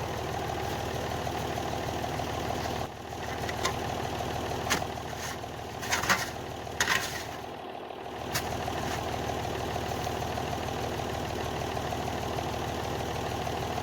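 Tractor engine idling steadily, with a few short sharp knocks or scrapes about five to eight seconds in.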